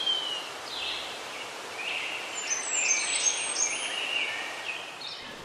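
Small birds chirping and twittering in many short, quick notes, over a steady hiss of outdoor ambience.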